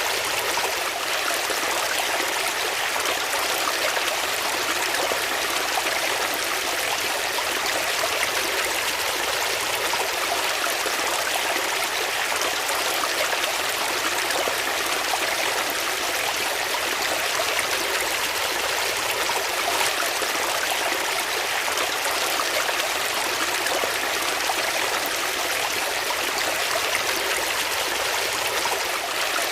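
Water flowing steadily, a continuous even rush like a stream.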